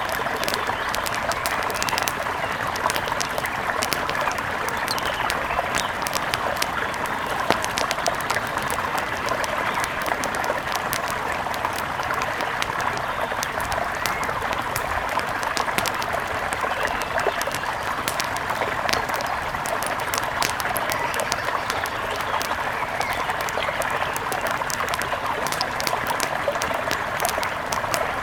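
Steady rush of a mountain river, overlaid throughout by frequent sharp crackles and pops from a wood fire.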